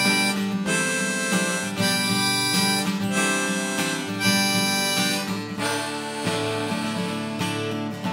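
Harmonica playing held notes over acoustic guitar chords: the instrumental intro of a folk song.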